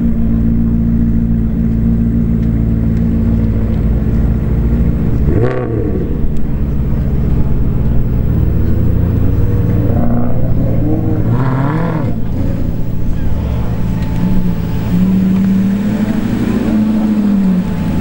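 Maserati V8 engines idling, with short revs blipped about five seconds in and twice around ten to twelve seconds. A longer rise and fall in revs follows near the end as a car pulls away.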